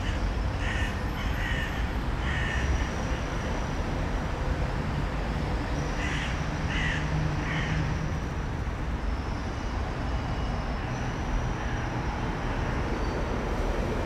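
A bird calling in short calls: a run of them in the first few seconds, then three more about six seconds in. A steady background rush runs under them.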